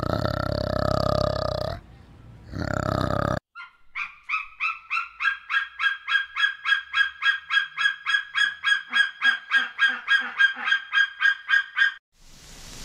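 A deep, drawn-out animal call, heard twice in the first few seconds. Then a bird honks over and over at about three honks a second for some eight seconds, each honk the same pitch.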